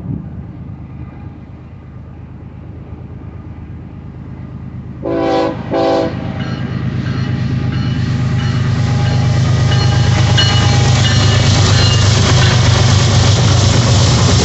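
BNSF freight locomotive horn sounding two short blasts about five seconds in. Then the rumble of the lead diesel locomotives and the rail noise of the grain train grow louder as it comes up and passes close by.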